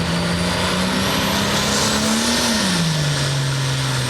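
John Deere hot farm pulling tractor's diesel engine running hard under load on the sled. Its pitch climbs slowly, then drops off about two and a half seconds in and settles lower.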